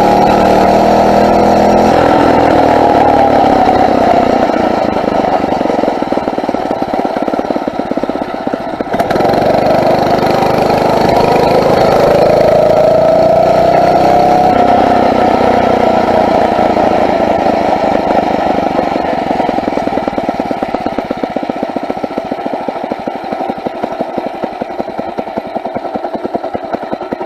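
Phatmoto four-stroke motorized-bicycle engine running under way, its pitch rising and falling with the throttle. It jumps up again about nine seconds in, climbs, then eases off to a slower, quieter putter over the last several seconds.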